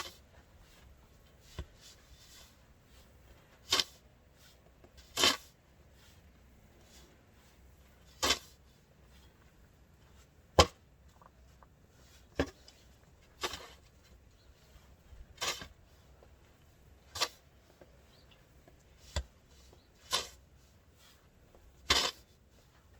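Deep snow crunching in short, separate hits, about one every two seconds.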